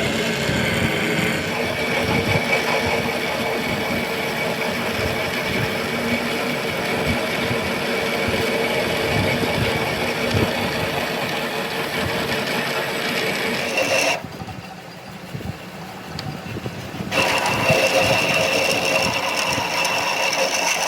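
An engine running steadily with a rough low knocking under a steady whine. It drops away suddenly for about three seconds past the middle, then comes back.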